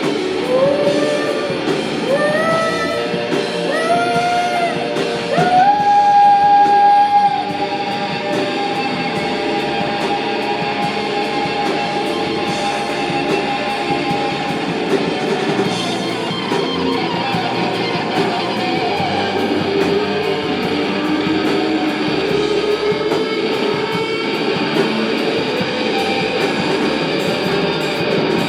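Live rock band playing an instrumental passage. A guitar line of short notes slides upward, each one higher than the last, and peaks in one long held note. A dense, steady band texture follows.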